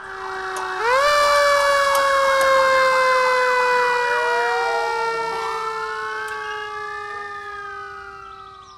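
Fire truck siren sound. A horn-like tone steps up in pitch about a second in and slowly sags, over a fast warbling yelp; a rising and falling wail follows in the second half, and the whole sound fades out near the end.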